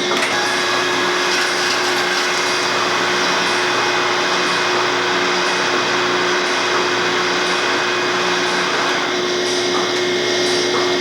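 Milking machine vacuum system running steadily in a dairy barn: an even mechanical drone with a constant hum and a faint tick about once a second.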